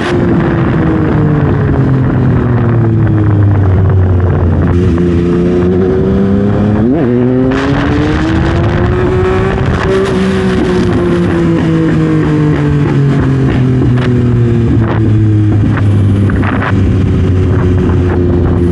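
Yamaha MT-09 (2021) inline three-cylinder engine through a Dominator full exhaust system, heard on the move. The engine note falls and rises as the bike slows and speeds up, with a quick sharp sweep up in pitch about seven seconds in.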